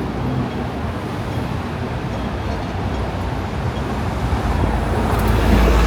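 City traffic noise, steady and even, with a low rumble that swells about four and a half seconds in as a heavy vehicle comes close.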